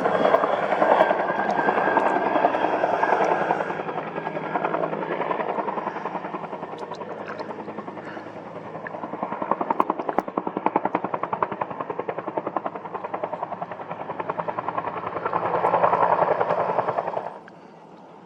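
Bell UH-1N helicopter passing, its main rotor beating in a fast, even pulse. The sound is loud at first, eases off through the middle, swells again near the end, then cuts off suddenly.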